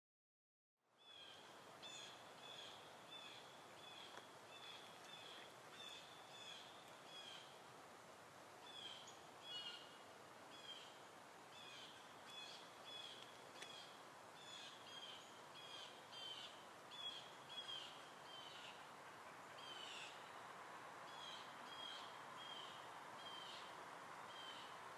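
Faint bird calls: short, high, slightly falling chirps repeated about twice a second over a soft steady hiss, starting about a second in.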